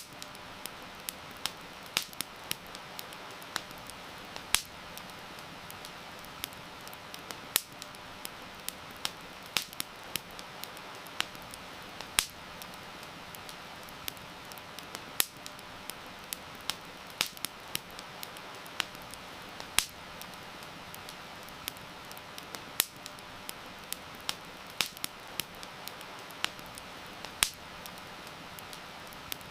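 Wood fire crackling, with irregular sharp pops and snaps several times a second, some much louder than others, over a steady hiss of rain.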